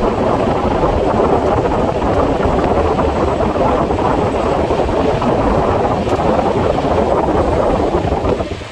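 Steady rumble of a passenger train running at speed, wheels on rails mixed with wind, played at double speed. The level dips briefly near the end.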